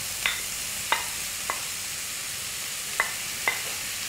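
Sliced onions and dried chillies sizzling in a little oil in a karai as cubes of fresh paneer go in, with several sharp taps of a wooden spatula against a plate and pan as the paneer is pushed in.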